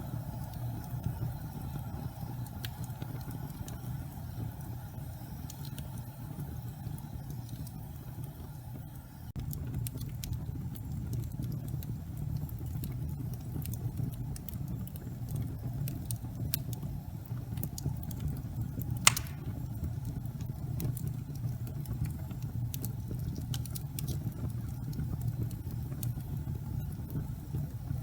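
Gas fireplace flames burning with a steady low rumble. Scattered crackles start about a third of the way in, with one louder pop a little past the middle.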